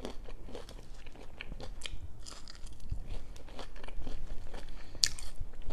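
Close-up chewing and crunching of food, with irregular wet mouth clicks and one sharper, brighter crunch about five seconds in.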